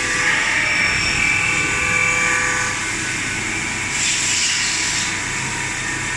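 CNC vertical machining center running: a steady machine whine with several held tones over a noisy hiss, and a brief louder high hiss about four seconds in.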